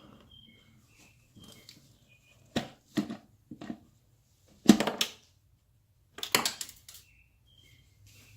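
Clunks and clattering knocks of plastic engine-bay parts being handled, in separate groups with the loudest a little before the middle and another cluster about six seconds in. Faint short high chirps sound between them.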